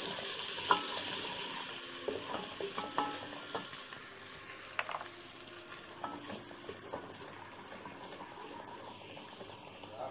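Onions and ginger-garlic paste sizzling in hot oil in a pressure cooker while a wooden spoon stirs them, knocking and scraping against the pot now and then. The sizzle slowly dies down.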